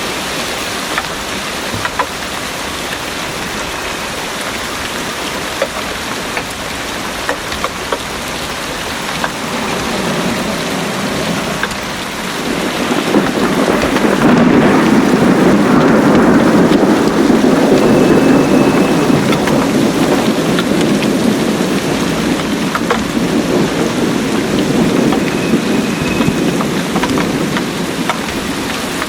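Heavy rain pouring steadily on a garden, with scattered sharp drips. About twelve seconds in a long low rumble of thunder builds, is loudest a few seconds later, and slowly fades away.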